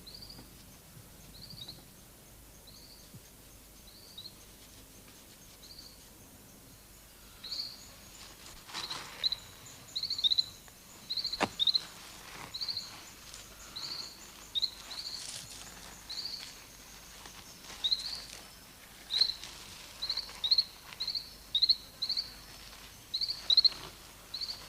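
Rainforest ambience: an animal's short, high, hooked chirps, sparse at first, then coming every half second or so from about seven seconds in. Over them is a faint steady high insect hum, with one sharp click about eleven seconds in.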